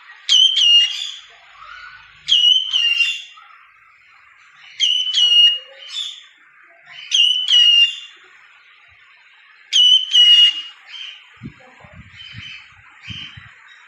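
Cockatiel whistling a short two-note phrase, repeated five times about every two and a half seconds, then softer chirps.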